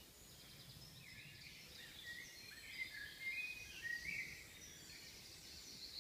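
Songbirds singing faintly: quick chirps and short trills that grow busier about two seconds in, over a low steady background hiss.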